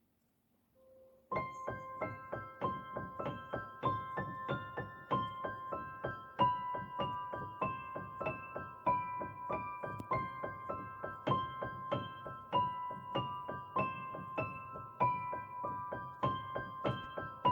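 Background piano music, a steady run of evenly paced single notes that starts about a second in after near silence.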